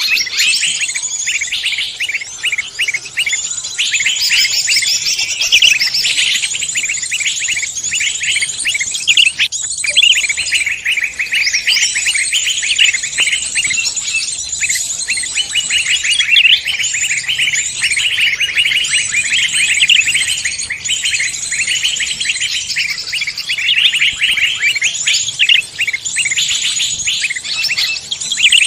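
A dense chorus of many songbirds chirping and trilling at once, with rapid high-pitched notes overlapping without a break: a mix of forest songbird calls of the kind used to lure wild birds.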